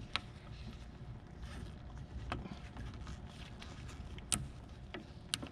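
Faint handling noise with four sharp clicks, roughly two seconds apart: a flathead screwdriver prying at the red plastic locking clip on a wheel speed sensor's wiring connector.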